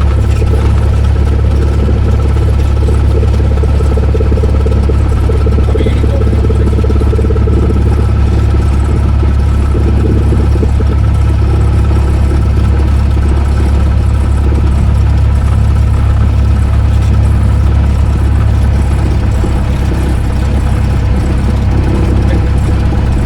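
Cessna 172S's four-cylinder Lycoming piston engine running steadily at low power, a loud, even drone.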